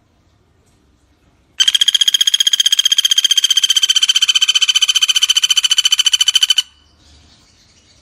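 Common flameback woodpecker (pelatuk bawang) giving one long trill of rapid, even notes, about ten a second, starting about a second and a half in and lasting about five seconds. Faint bird chatter sounds before and after it.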